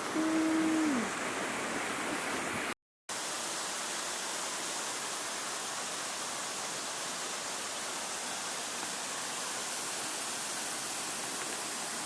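Steady rush of the Dholo waterfall, falling water heard as an even hiss. Near the start a brief hum-like tone holds one pitch and falls off at its end, and about three seconds in the sound drops out for a moment at a cut.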